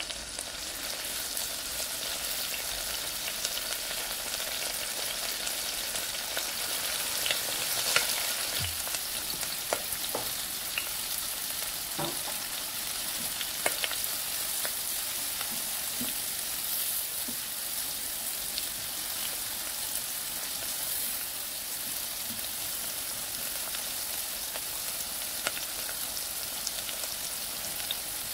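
Sliced beef frying in hot oil with sliced shallots and garlic in a nonstick frying pan: a steady sizzle, fried until half dry. It is stirred with a silicone spatula, with a few sharp clicks in the first half.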